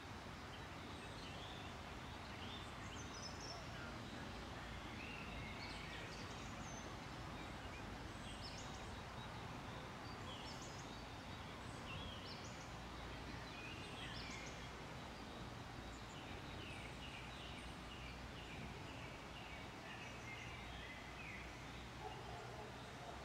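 Several songbirds singing in short chirps and trills over a faint, steady low background rumble.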